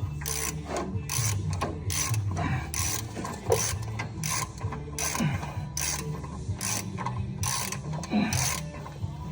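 Hand ratchet wrench turning a bolt, its pawl clicking in an even run of about two to three clicks a second.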